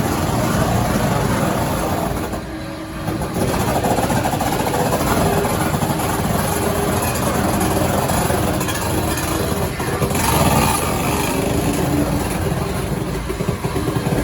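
Steam locomotive running, a steady loud rush of working noise with a brief drop about two and a half seconds in.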